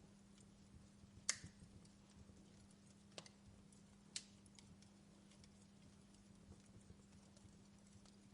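Wood log fire crackling faintly, with three sharp pops, the loudest about a second in, over a steady low hum.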